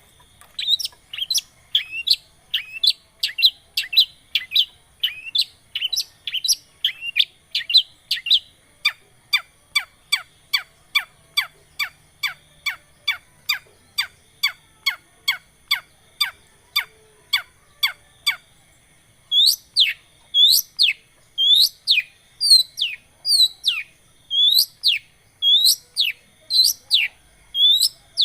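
Long-tailed shrike (cendet) song: a long run of short, sharp downward-sweeping notes, about two to three a second, that breaks off about eighteen seconds in. After a short pause it resumes with louder, sharper notes.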